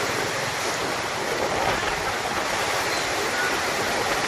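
Heavy storm rain pouring steadily, a dense even hiss.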